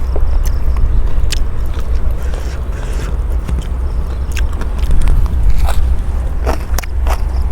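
A person biting and chewing food close to the microphone: a pounded long-bean salad eaten with sticky rice, with many short sharp crunchy clicks, over a steady low rumble.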